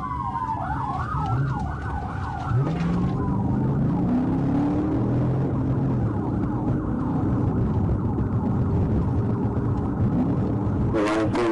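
Police patrol car's siren wailing and yelping over the car's engine and road noise. The siren fades after about three seconds, while the engine keeps running hard, its pitch rising and falling.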